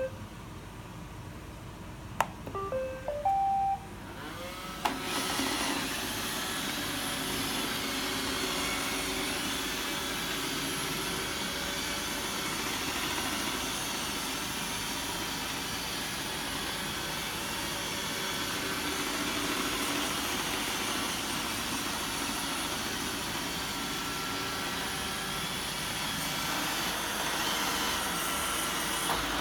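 iRobot Roomba 770 robot vacuum: a few short electronic beeps stepping upward in pitch, then about five seconds in its cleaning motors start and run steadily.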